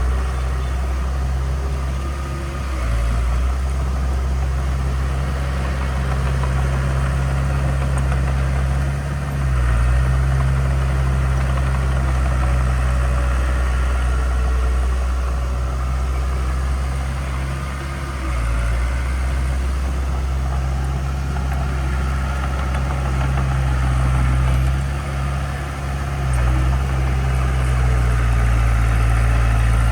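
Heavy earthmoving machine's diesel engine running with a steady low drone. Its pitch and level shift briefly a few times.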